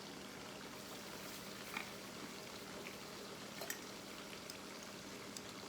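Chicken karahi simmering in the pot: a faint, steady bubbling hiss with a few soft pops.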